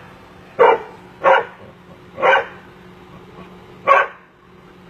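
A dog barking four short barks, the last one after a longer pause.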